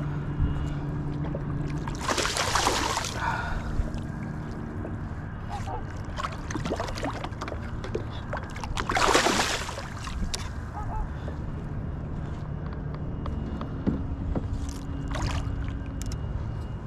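Water sloshing and gurgling around a kayak's hull over a steady low rumble, with a few brief louder splashes, the biggest about two seconds in and about nine seconds in.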